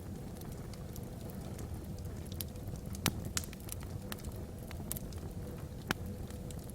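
Wood fire burning logs in a fireplace: a steady low rumble of flames with scattered sharp crackles and pops, the loudest about three seconds in and again near six seconds.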